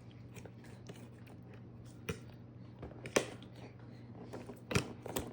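A baby eating mashed pear: four scattered short smacks and clicks over a faint steady hum.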